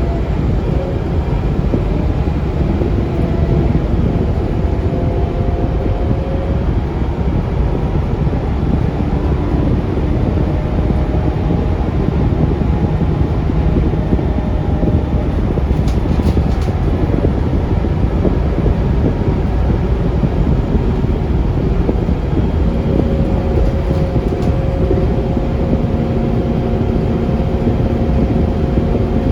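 Interior running noise of a Scania K360UA articulated city bus on the move: a steady low rumble of engine and road noise, with faint engine and driveline tones slowly shifting in pitch as the speed changes. A few light clicks come about halfway through.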